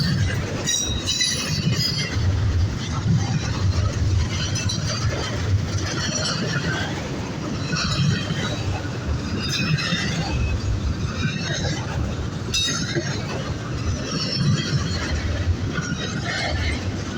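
Freight train rolling past close by: a steady rumble of the cars, with high-pitched wheel squeal and clatter coming back every second or two.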